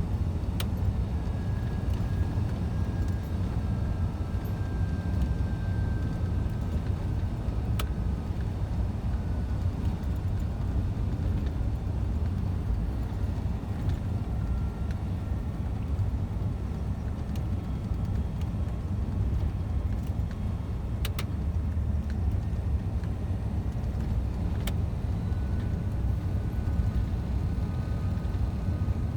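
Scania truck on the move: steady low engine and road rumble, with a few light clicks scattered through.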